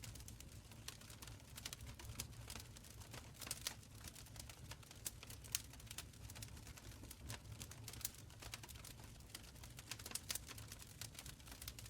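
Wood fire crackling in a stone fireplace: a dense, irregular run of small sharp pops and snaps over a soft low rumble of burning.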